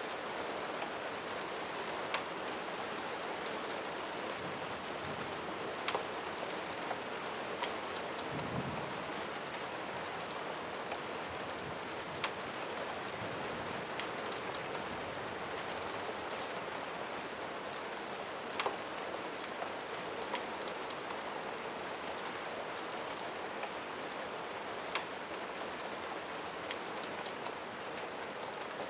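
Steady rain falling, an even hiss with scattered sharp ticks and pops throughout and a brief low rumble about eight seconds in.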